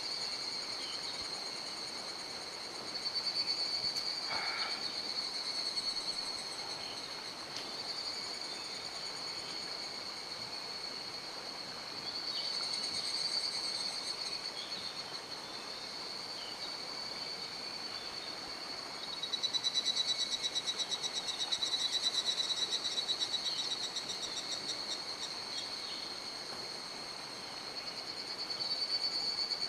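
A steady, high-pitched trilling chorus of insects that swells and fades in waves, over the even hiss of a mountain stream. A single short crack is heard about four seconds in.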